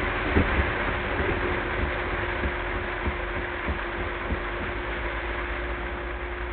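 A car driving through heavy rain, heard from inside the car: a steady hiss of rain and road noise with a steady hum, and irregular low thumps that thin out in the second half.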